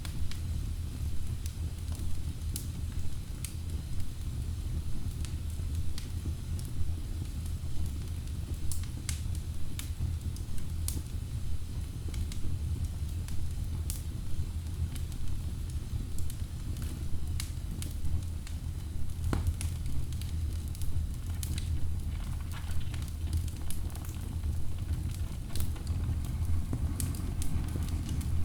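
Wood fire burning in a fireplace: a steady low rumble of flame with irregular sharp crackles and pops from the logs.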